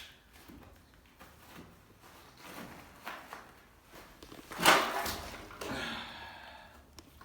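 Footsteps moving across a bunker floor, with scattered light knocks. A single sharp knock or clatter, the loudest sound, comes a little under five seconds in and is followed by a short scrape.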